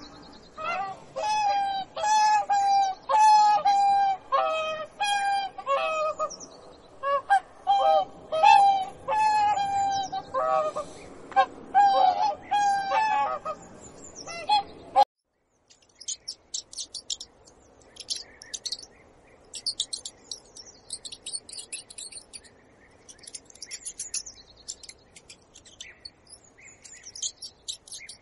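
Birds calling: loud, short, repeated calls, several a second, for about fifteen seconds, then a sudden cut to fainter, high-pitched chirping of small birds.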